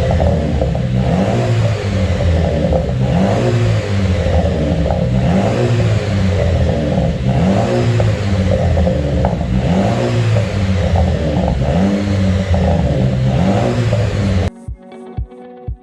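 Jeep Wrangler Rubicon's engine revved repeatedly through a custom end exhaust, the exhaust note rising and falling about every two seconds. Near the end it cuts off suddenly to quieter background music with a low thumping beat.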